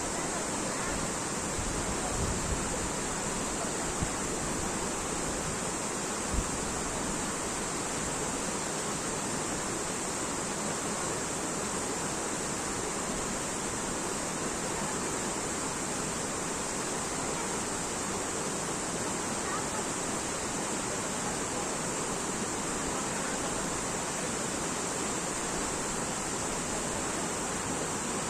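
Steady, even rush of a natural waterfall running after cyclone rains. Two brief bumps about four and six seconds in.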